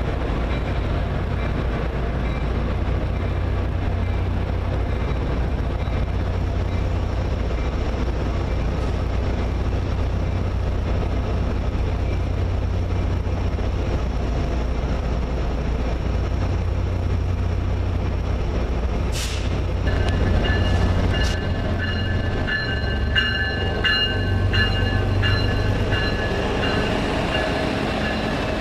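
Train running with a steady low rumble. About two-thirds of the way through there is a sharp clank, followed by several seconds of on-and-off high-pitched squealing.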